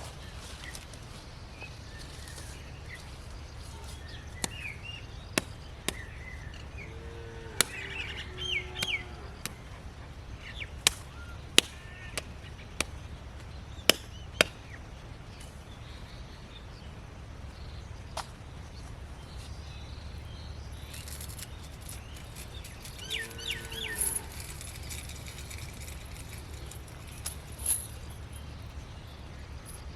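Birds calling in short chirping bursts, twice, over a steady low hum, with a scattered run of sharp knocks in the first half.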